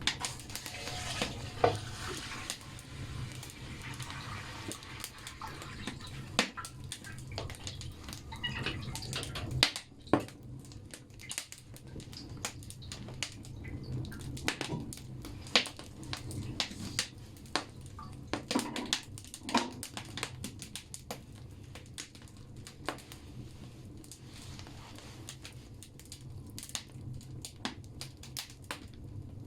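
Firewood burning in a bathhouse (banya) stove: irregular sharp crackles and pops over a steady low rumble of the fire, with a couple of brief hissing sputters about two-thirds of the way through.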